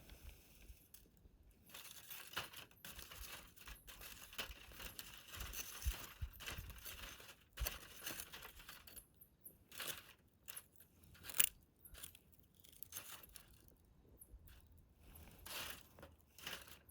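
Wood fire crackling and popping in a fire pit, in irregular snaps over a faint hiss, with one louder pop about eleven seconds in. The crackle is dense in the first half and thins to scattered snaps after that.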